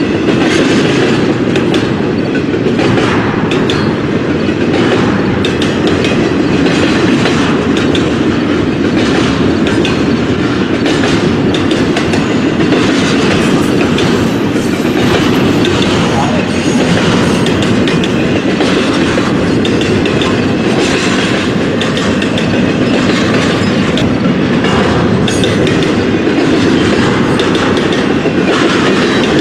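Freight train rolling past at close range: a steady, loud rumble of wheels on rail, with irregular clicks as the cars cross the rail joints.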